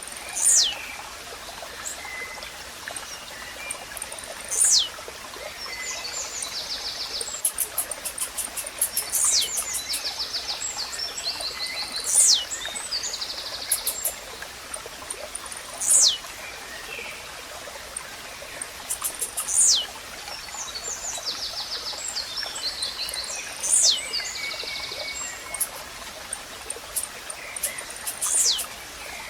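Blue-black grassquit (tizil) singing: a short, sharp note that sweeps steeply down in pitch, led by a quick ticking, repeated about every four seconds. Other small birds trill between the songs over a steady rush of running water.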